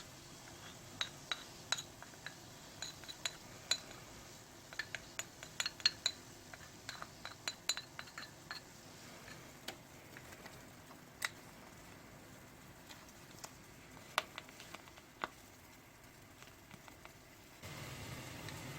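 Eating utensils clinking against a dish while noodles are eaten: a quick flurry of light, ringing clinks over the first several seconds, then a few scattered clinks.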